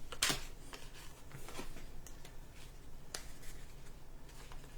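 Trading cards being handled and sorted by hand: a run of soft, irregular clicks and flicks, the sharpest about a quarter second in.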